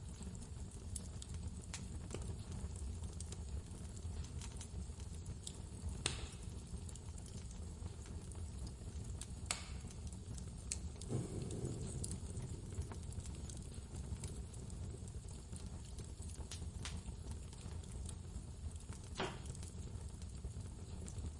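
Wood fire crackling, with scattered small pops and a few louder snaps, over a steady low rumble of blizzard wind.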